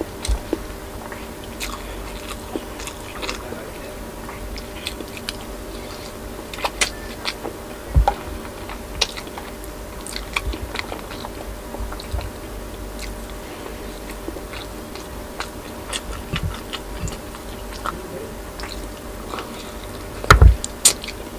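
Close-miked chewing and biting of boiled pork and rice, with many small wet mouth clicks. A louder thump comes about eight seconds in and again near the end.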